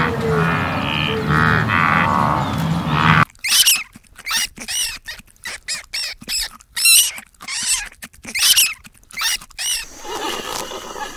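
Otter squeaking: a string of short, sharp, high-pitched chirps with brief gaps between them, from about three seconds in until near the end. Before them, a steady low sound with a wavering tone over it.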